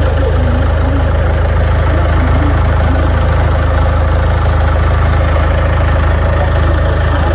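Excavator engine idling steadily with a deep, even hum.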